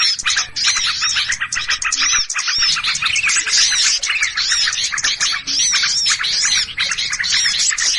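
Dense, agitated chorus of many small songbirds chirping and calling over one another without pause, a repeated arching call note rising and falling about twice a second: a bird-lure (pikat) recording of alarmed, noisy small birds used to draw other birds in for trapping.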